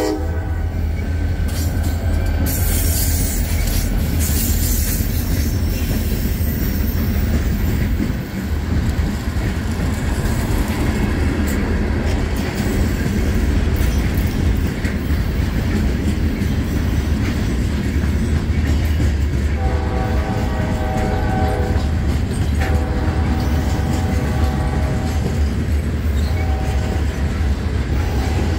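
Loaded freight train rolling past: the diesel locomotives' low rumble, then the steady rumble and clatter of loaded hopper cars' wheels on the rails. About twenty seconds in, a locomotive horn sounds somewhat faintly in a long, long, short, long pattern, the grade-crossing signal.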